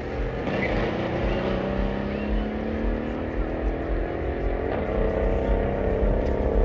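Car engine running under load, its pitch rising slowly as the car accelerates, over a deep low rumble.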